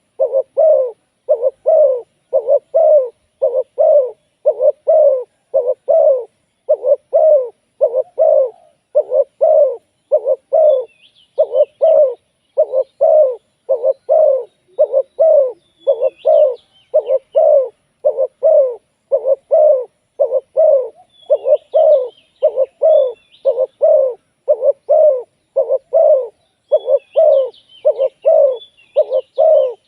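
Spotted dove cooing over and over, a steady run of short low coos about one and a half a second, the calls of a decoy bird used to lure wild doves. Faint high chirps from small birds come in now and then.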